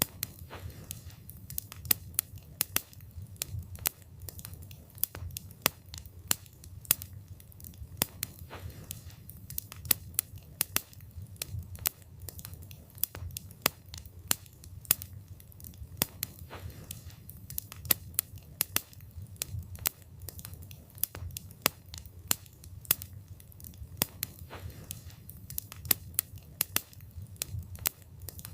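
Wood fire burning: a steady low rumble of flames with frequent sharp crackles and pops of burning wood, irregular, several a second.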